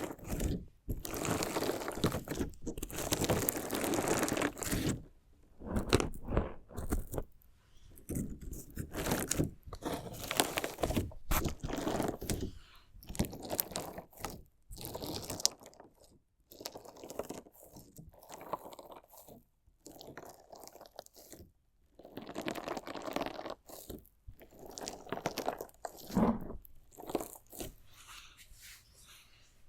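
Crunchy slime jelly mixed with decorative interior stones, cut, poked and squeezed close to the microphone, giving irregular bursts of crunching and crackling with short pauses between them.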